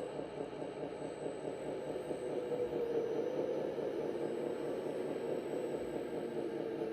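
Simulated diesel engine sound from an RC model vehicle's electronic sound module, running steadily with a fast, even pulse.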